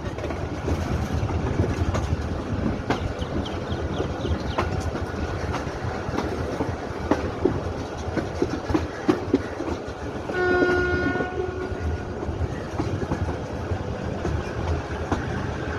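Passenger train running on the track, a steady low rumble with wheels clicking over rail joints. About ten seconds in, a train horn sounds once for about a second and a half.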